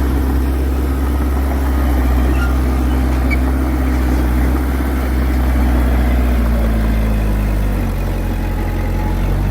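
Heavy diesel engine of earthmoving machinery running steadily at a low, even note, with a slight change in engine speed about eight seconds in.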